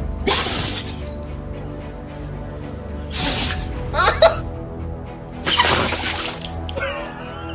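Three sudden loud crashes, about a second in, three seconds in and five and a half seconds in, each with a brief ringing tail, over steady background music.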